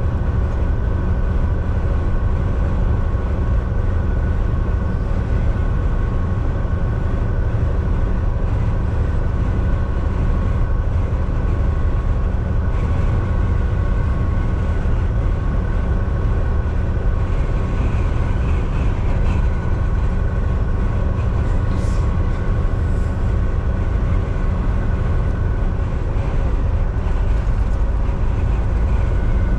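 Volvo VNL 760 semi-truck cruising at highway speed, heard from inside the cab: a steady engine and road rumble with a faint constant whine over it. A faint click comes about two-thirds of the way through.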